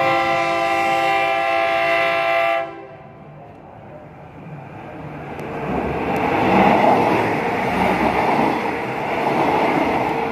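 Diesel railcar train's horn sounding one long blast that cuts off after about two and a half seconds. From about five seconds in, the train passes close by, and the noise of its wheels on the rails builds and stays loud.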